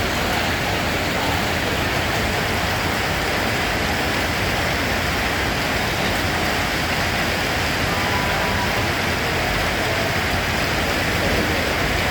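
Steady rain, an even unbroken hiss with no single drops, thunder or gusts standing out.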